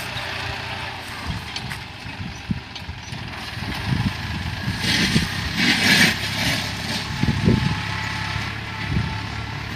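Diesel engine of a New Holland 49 hp, 2700 cc tractor running steadily while pulling a six-disc plough through the soil, with uneven low rumbles. About five seconds in comes a brief burst of rushing noise.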